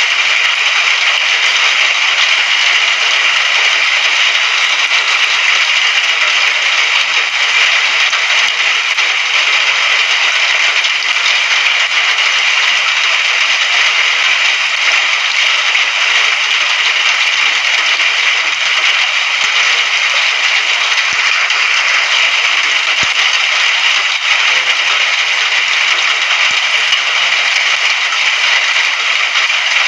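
Steady rain falling, heard as a dense, even hiss that does not change.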